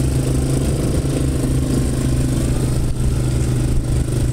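An engine running steadily close by, a low even hum with a pulsing low end that holds level throughout.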